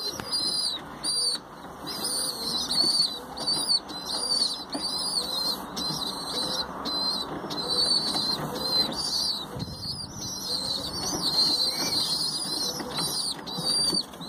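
Baby birds begging with rapid high chirps, several a second and on and on, with wing flutters, while a parent bird feeds them by regurgitating food.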